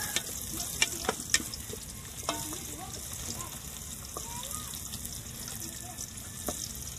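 Sliced shallots, garlic, ginger, torch ginger flower and dried chillies frying in hot oil in an aluminium pot, a steady sizzle as they cook until fragrant. A wooden spatula stirs them and knocks against the pot a few times.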